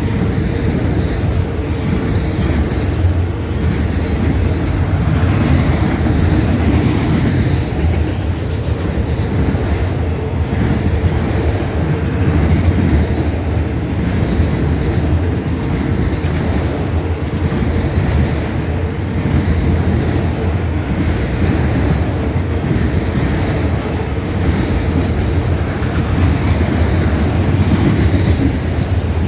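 Freight train of empty autorack cars rolling steadily past, its steel wheels running on the rails.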